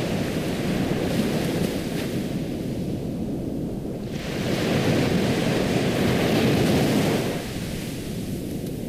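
Ocean waves washing in and drawing back, a steady surf hiss that swells with each wave. One wave builds about halfway through and falls away a little before the end.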